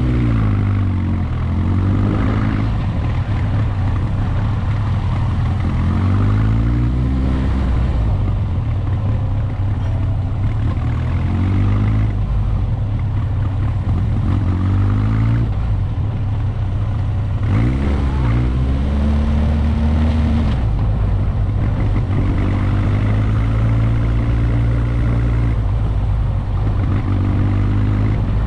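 Motorcycle engine on the move, its pitch rising under throttle and dropping at each gear change, several times over, with a steady low rumble and rushing noise beneath.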